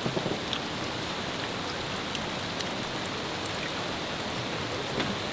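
Steady rain falling, an even hiss with a few scattered sharp drop ticks.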